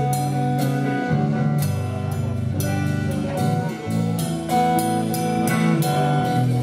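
Band music: an instrumental passage with sustained guitar chords changing about once a second over a drum kit's regular beat, with no singing.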